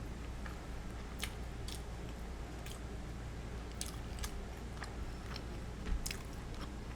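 Close-miked chewing of karaage (Japanese fried chicken), with a handful of short crisp clicks and crunches scattered through the chewing.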